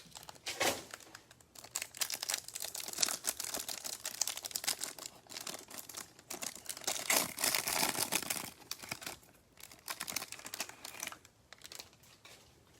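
Plastic packaging crinkling and tearing as a trading-card hanger box is opened, with a dense run of crackles that dies down near the end.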